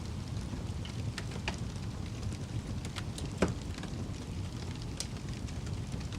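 Fire crackling: a steady low roar of burning wood with scattered sharp pops and snaps, one louder pop about three and a half seconds in.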